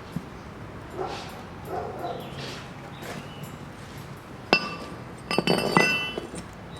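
Hammer blows on a steel anvil, each ringing on: one strike about halfway through, then a quick run of several strikes near the end.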